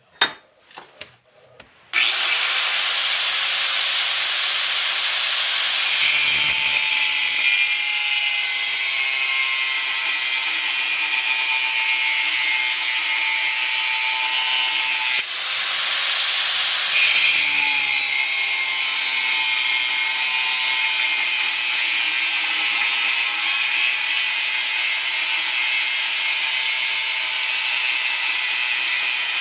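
Angle grinder cutting steel plate: after a few light clicks it comes on abruptly about two seconds in with a loud, steady, high hiss and motor whine, and eases off briefly about halfway through before carrying on.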